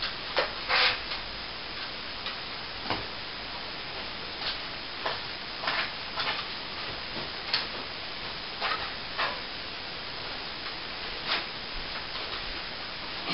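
Plastering trowel scraping and tapping in short, irregular strokes, over a steady background hiss.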